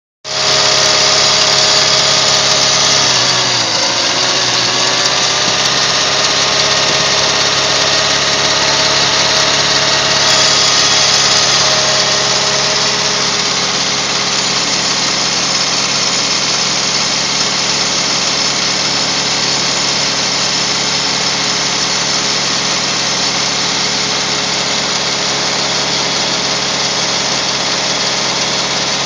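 1969 Renault R16's four-cylinder engine running steadily at raised revs; about four seconds in the revs sag briefly and then pick back up.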